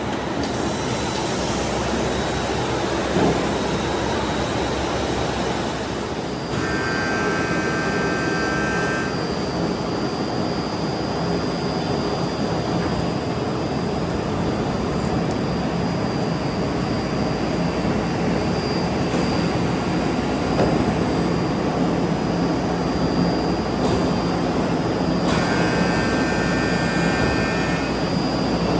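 Steady machinery noise on a tyre factory floor, an even roar with a thin high whine. Twice, a cluster of higher steady tones sounds for a few seconds.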